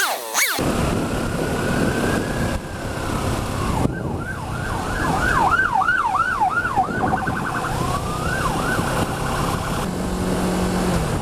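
Emergency vehicle siren, first a slow rising and falling wail, then quick repeated yelps at about two to three a second, then a fast warble. Underneath it is the steady running and road noise of a motorcycle.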